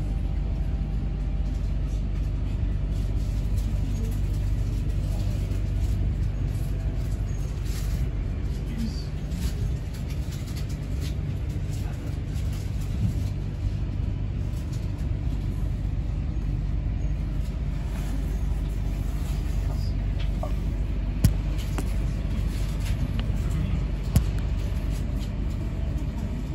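Steady low rumble of a moving double-deck electric intercity train, heard from its upper deck as it pulls away from a station. A few sharp clicks stand out, about halfway through and twice near the end.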